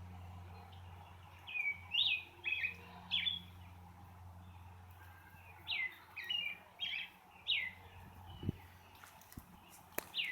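A songbird singing short, downward-slurred whistled chirps in two quick runs. Under them is a faint low rumble, strongest in the first couple of seconds, taken for distant thunder from an approaching thunderstorm.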